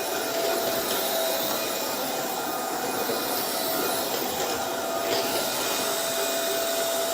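Roborock Dyad Pro cordless wet-and-dry vacuum running steadily: an even rush of air with a steady motor whine.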